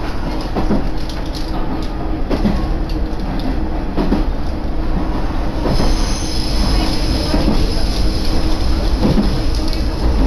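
Koumi Line diesel railcar running, heard from inside the passenger cabin: a steady rumble of engine and wheels on the track, with occasional knocks. A higher hiss joins about six seconds in.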